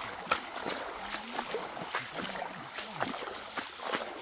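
Footsteps and trekking-pole taps on a wet, muddy trail: irregular sharp clicks and soft squelches, the sharpest about a third of a second in.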